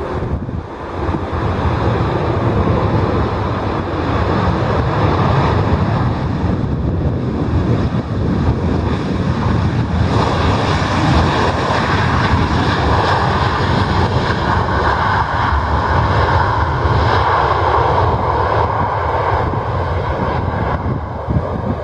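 Jet airliner's engines running loud and steady, a broad rushing noise with a faint high whine above it.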